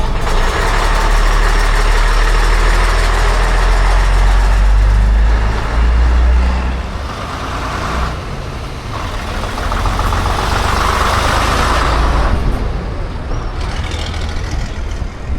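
Diesel bus engine running loud and close, its note shifting about six seconds in and dropping away after about twelve seconds.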